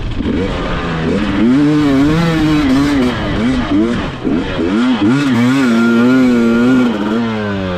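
KTM 300 XC-W TPI two-stroke dirt bike engine revving as it is ridden, the pitch rising and falling again and again with the throttle and dropping away near the end.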